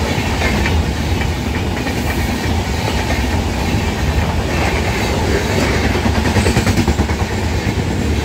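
Express train of LHB passenger coaches running through a station at speed: a steady rumble of wheels on rail with a rhythmic clickety-clack over the rail joints, heaviest in the second half.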